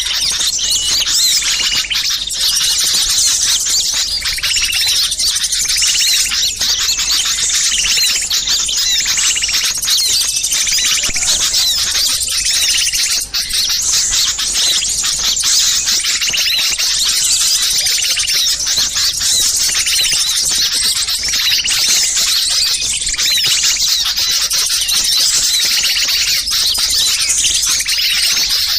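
A dense, unbroken chatter of many small songbirds giving rapid, high chirps and trills: a bird-lure recording of noisy, agitated small birds, used to draw wild birds in.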